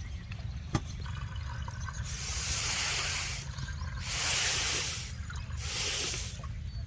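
Water splashing or pouring in four hissing surges, about a second long each, over a steady low rumble. There is a single sharp click near the start.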